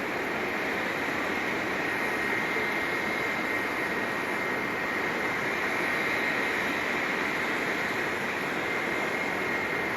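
Steady jet aircraft noise: a constant rushing hiss with a thin, high whine held throughout.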